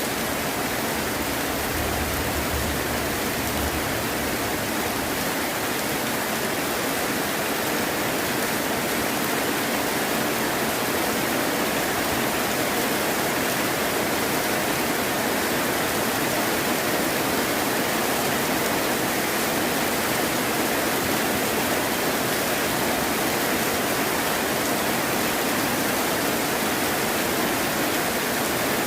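Heavy rain falling steadily: a continuous, even hiss with no breaks.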